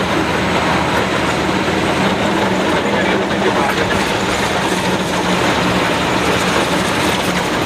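Laden goods truck under way: a steady engine hum with dense road and body noise over it.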